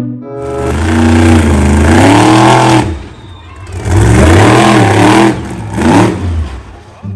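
A motor vehicle engine revving, its pitch rising and falling in two long surges with a short lull about three seconds in.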